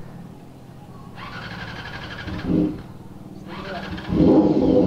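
Honda inline-four motorcycle engine idling steadily, then revved up about four seconds in and running louder. It runs without the 'chuk-chuk' stutter, on freshly sorted carburettors.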